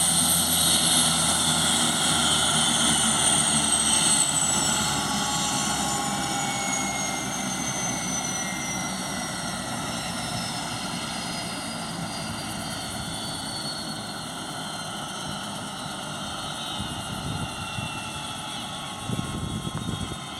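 Airbus AS532AL Cougar helicopter running, its turbine whine falling slowly and steadily in pitch as the sound gradually fades.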